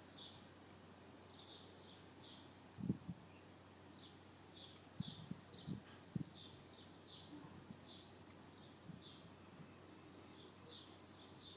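Small birds chirping in short, high, repeated notes in the background, with a few brief low thumps around the middle.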